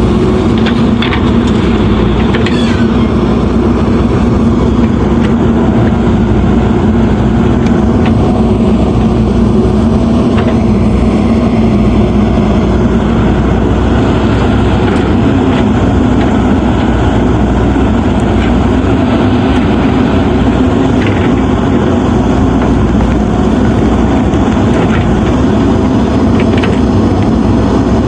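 Diesel engine of a JCB 3DX backhoe loader running steadily, with a few faint clicks here and there.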